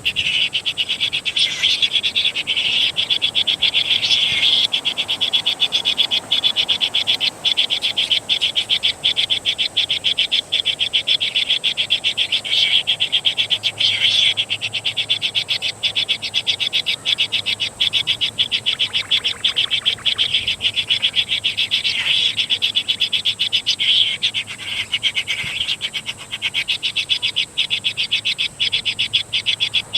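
A dense chorus of animal calls, a rapid high-pitched pulsing that holds steady throughout, with a faint thin steady whine above it.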